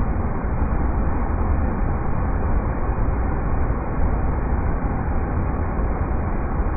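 River rapids rushing: a steady, even low rush of water that does not change.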